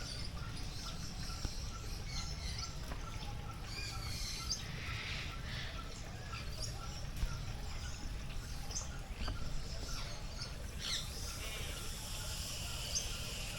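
Assorted birds chirping and calling, with a quickly repeated short note in the first few seconds, over a steady low rumble.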